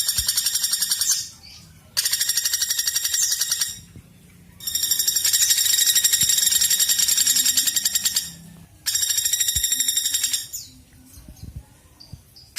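Woodpecker calling in long, rapid, high-pitched rattling trills, four bouts of one to four seconds each with short pauses between.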